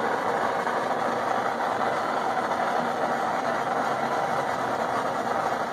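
Torch flame blowing steadily while scorching a wooden tool handle.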